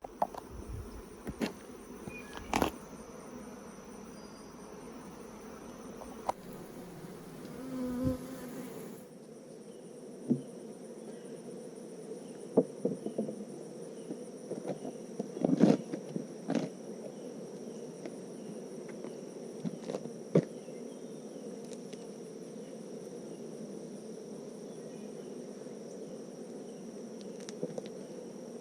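A steady hum of many honeybees buzzing around an open hive during an inspection, broken by a few short sharp knocks.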